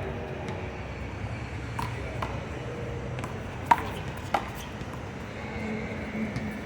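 Rubber handball being slapped by hand and hitting the wall during a one-wall handball rally: about six sharp smacks at uneven intervals, the loudest a little past the middle.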